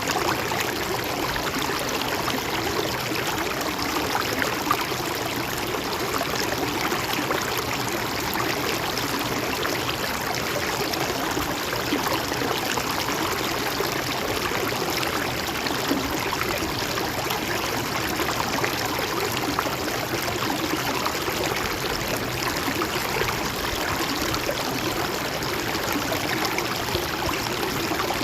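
Mountain stream flowing and trickling steadily over rocks, a continuous babbling of water.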